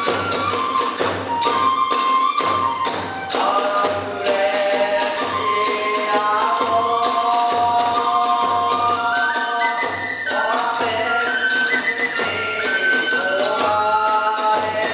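Kagura hayashi ensemble playing: a bamboo flute melody that bends and glides, over a steady beat on the taiko drum and the sharp clash of small hand cymbals.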